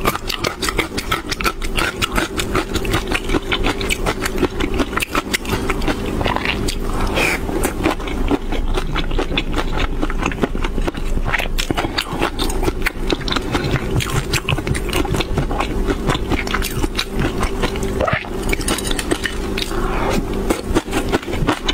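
Close-miked chewing of shrimp and fish roe: a dense run of wet clicks, smacks and crackles, with a steady low hum underneath.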